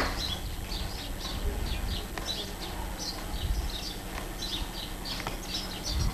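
Small birds chirping in quick, irregular short calls, over a steady low hum.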